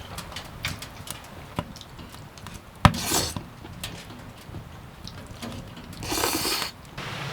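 Wood being handled: scattered light knocks and clicks, one sharp knock about three seconds in, and a short rustling scrape near the end.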